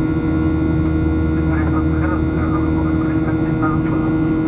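Steady engine and airflow drone inside the cabin of a Boeing 737-800 in flight, from its CFM56-7B turbofans, with a constant hum of held tones. Faint voices in the cabin come through from about a second and a half in.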